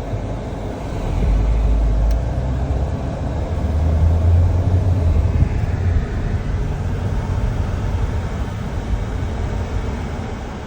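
Car driving, heard from inside the cabin: steady road and engine noise with a deep rumble that swells about a second in and again around four to six seconds.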